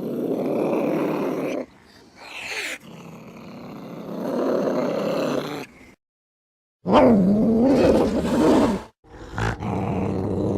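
Angry domestic cat growling and yowling in several separate bursts with abrupt silent breaks between them. About seven seconds in comes a long, wavering yowl that rises and falls in pitch.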